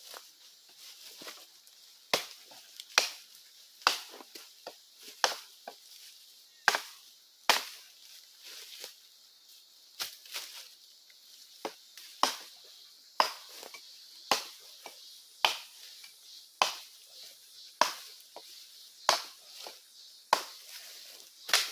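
Wood being chopped for firewood, a blade striking the wood about once a second in a steady series of sharp blows.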